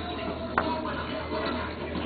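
Background television audio from a film scene, with faint music over a steady rushing noise, and a single sharp click about half a second in.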